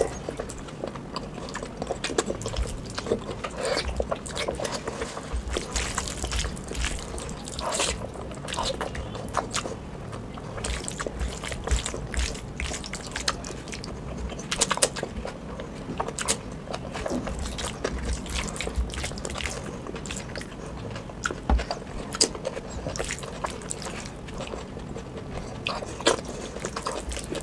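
Close-miked eating sounds: wet chewing and smacking of mouthfuls of oily mutton fat curry and rice eaten by hand, an irregular run of sharp clicks and squelches with no pause.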